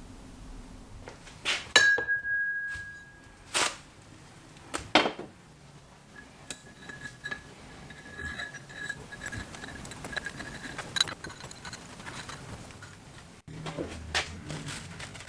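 Metal parts clinking and tapping together: a few sharp strikes, one of them leaving a clear ringing tone for about two seconds, then fainter scraping and ringing with another strike near the end.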